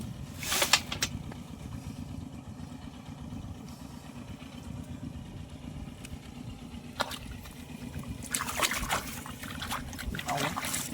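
A small engine running steadily, with splashing water in the muddy field about half a second in and again several times near the end.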